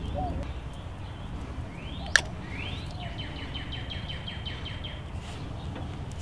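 A songbird singing: a rising note, then a quick run of repeated high notes at about four a second. A single sharp click sounds about two seconds in, over steady low outdoor background noise.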